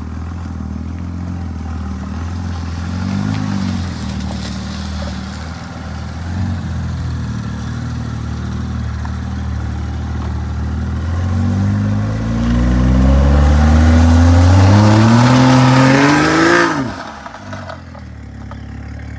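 BMW 435i's turbocharged inline-six idling, revved briefly, then brought up steadily in a long rising rev held against the brakes in a burnout attempt, before the throttle is chopped and the revs fall away suddenly near the end.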